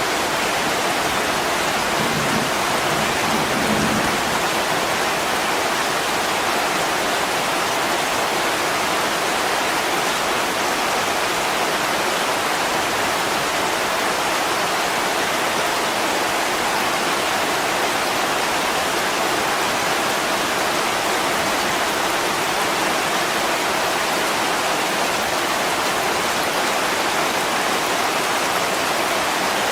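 Heavy rain pouring steadily on a window pane, an even unbroken hiss. A faint low rumble sits under it in the first few seconds.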